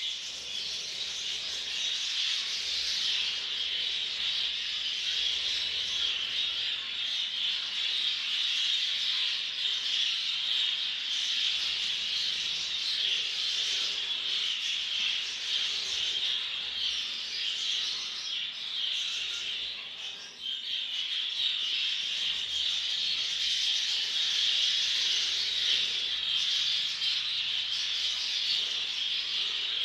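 Exhibition budgerigars chattering and squawking together without a break, with a short lull about two-thirds of the way through.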